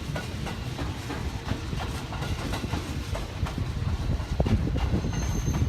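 Meitetsu electric express train running on the Nagoya Main Line: a low rumble with irregular clicking of wheels over the rails.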